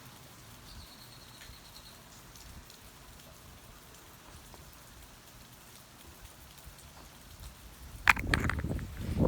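Faint steady rain falling. About eight seconds in, a sudden burst of loud knocks and clatter close to the microphone.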